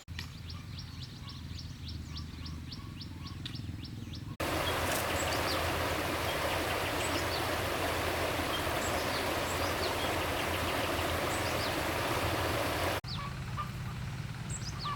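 Outdoor ambience: birds chirping rapidly over a low steady hum, broken by a loud steady rushing noise from about four to thirteen seconds in. The rushing noise starts and stops abruptly, as at an edit.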